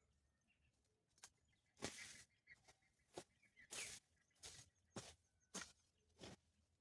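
Footsteps of a person walking, about three steps every two seconds, starting about a second in.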